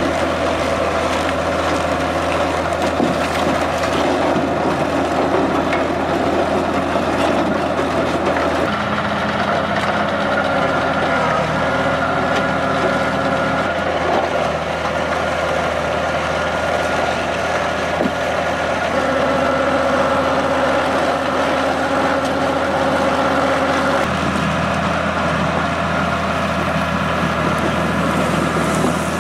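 Bark-peeling (debarking) machinery running steadily, a continuous engine and mechanical drone whose mix shifts every few seconds.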